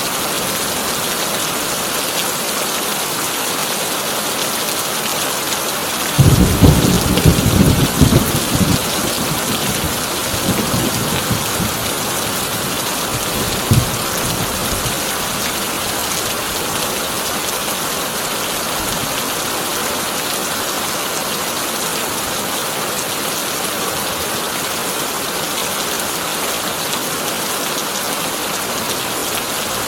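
Heavy rain falling steadily on a tin roof. A thunderclap breaks in suddenly about six seconds in and rumbles on for about three seconds, with weaker rumbles a few seconds later and one short jolt of thunder near the middle.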